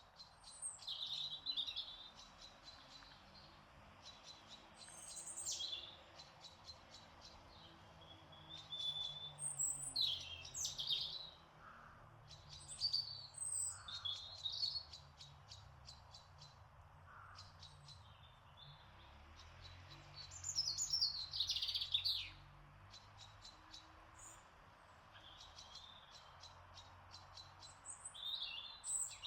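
Garden songbirds singing: short chirping song phrases every few seconds, loudest about a third of the way in and again past the middle, over a faint, rapid, even ticking and soft background noise.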